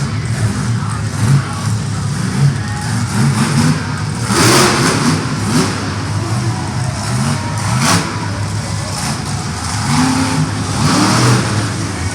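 Monster truck engines running and revving in an arena, the pitch rising and falling, with louder rushes of noise about four and a half, eight and eleven seconds in.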